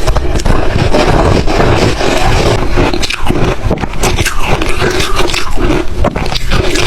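Ice being chewed and crunched close to the microphone: a dense, continuous run of loud, irregular crunches.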